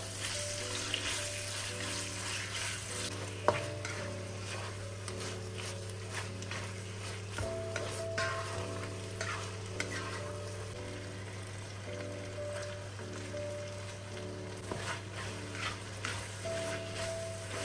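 Pad see ew ingredients sizzling in a hot pan as they are stir-fried, with a spatula scraping and tapping against the pan and one sharp knock about three and a half seconds in. Soft background music runs underneath.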